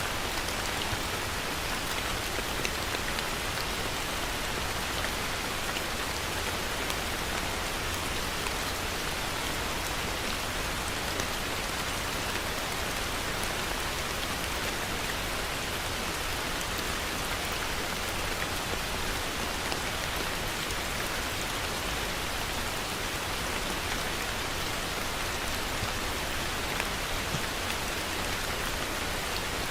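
Heavy rain falling steadily, an even hiss of rain with scattered drops striking a surface.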